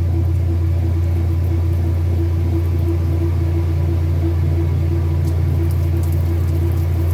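Kenmore washing machine running: a steady, loud low motor hum with a fainter tone above it that pulses at a regular beat.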